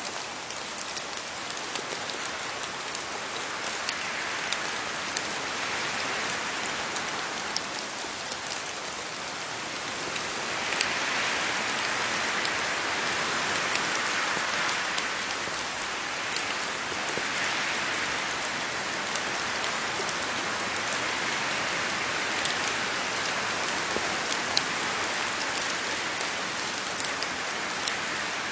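Steady rain falling on leaves, a dense patter of drops that grows a little heavier about a third of the way in.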